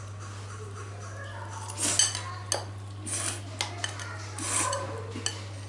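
Eating utensils clinking and scraping against dishes: a handful of sharp clinks and a few short scrapes in the middle seconds.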